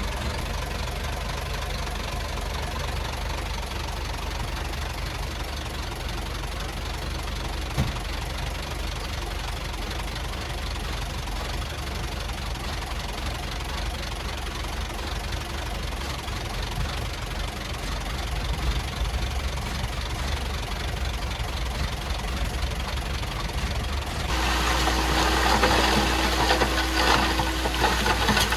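Komatsu D51PX bulldozer's diesel engine running steadily at low load. About 24 seconds in it gets louder, with a harsher, noisier clatter and a steady whine over it, as the machine works harder.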